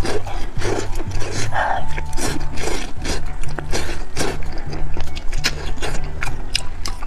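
Close-miked chewing of meat: wet smacking and crisp mouth clicks coming irregularly several times a second.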